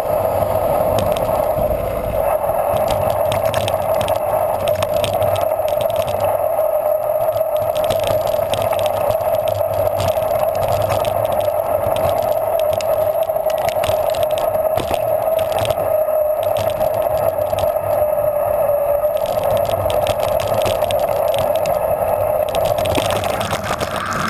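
Bicycle being ridden: a steady hum of the tyres rolling, with the bike rattling.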